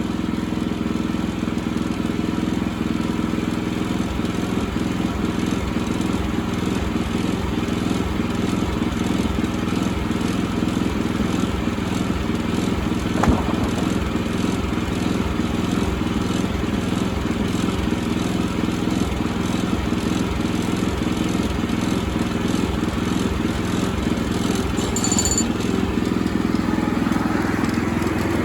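Engine running at a steady speed, with a single sharp knock about thirteen seconds in.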